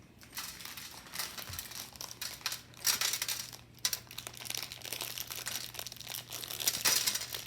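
Plastic packaging being handled and crinkled by hand in quick, irregular crackles, with a few louder rustles.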